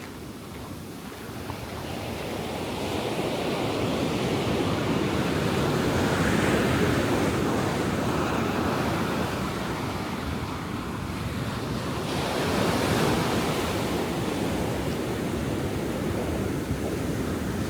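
Ocean surf breaking and washing up a sandy beach, a continuous rush that builds over the first few seconds and swells again about thirteen seconds in, with wind on the microphone.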